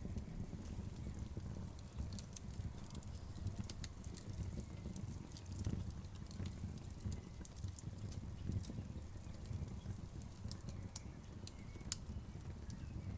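Wood fire crackling: many sharp, irregular pops and snaps over a low, steady rumble.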